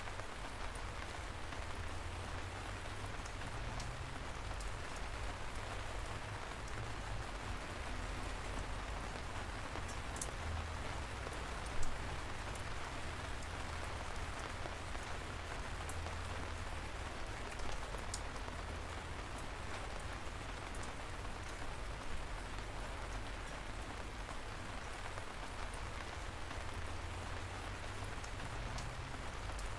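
Steady light rain falling, an even hiss with individual drops ticking sharply now and then; one drop near the middle stands out louder than the rest.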